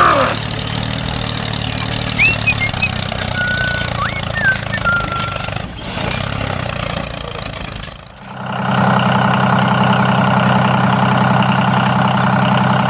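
Small engine of a DIY miniature tractor running steadily, with a few short squeaky glides a few seconds in. Near 8 s the sound cuts and a louder, steadier engine hum takes over.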